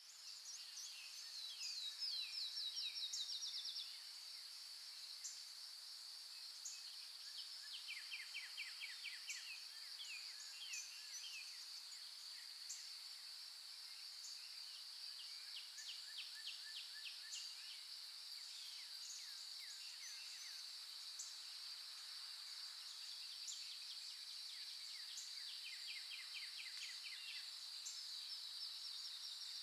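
A steady high-pitched insect drone with birds singing over it in rapid trills of short falling notes, repeated many times; the loudest trill comes about two to four seconds in.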